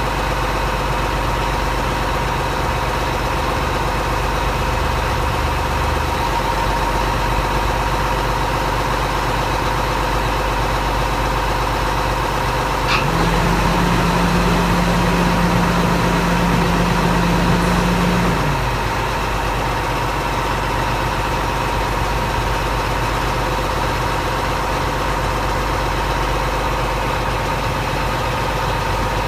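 Crane truck's engine idling steadily. About 13 seconds in there is a click, and a louder steady low hum joins for about five seconds before dropping away again.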